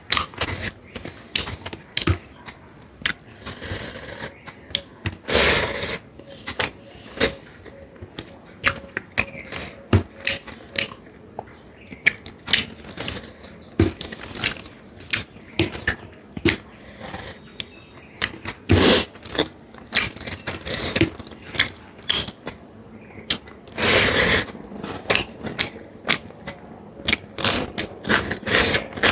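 Close-up eating sounds: wet chewing and mouth smacking, with frequent short clicks. Two longer, noisier bursts come about five seconds in and again later.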